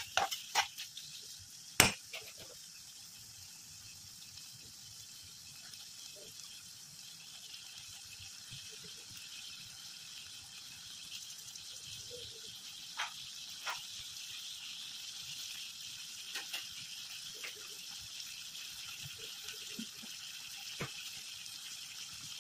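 Onions, green chillies and freshly added tomatoes frying in oil in a kadai: a steady sizzle that slowly grows a little louder, with a few scattered pops and clicks and one sharp knock about two seconds in.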